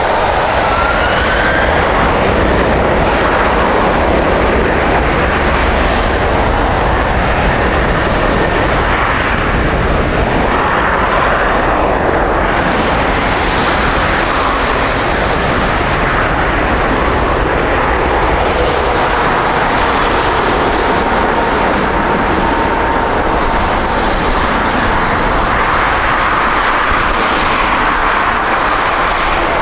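Jet airliner engines heard close by, a loud steady rumble and rush with a faint whine that slides in pitch.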